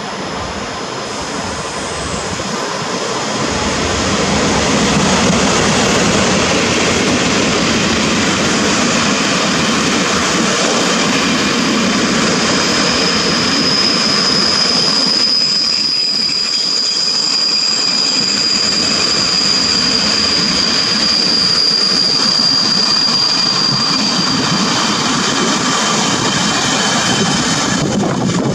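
A train of Taiwan Railways passenger coaches rolling past on the adjacent track, a steady loud clatter and rumble of wheels on rail that builds over the first few seconds. A high steady wheel squeal sounds over it from about 12 to 25 seconds.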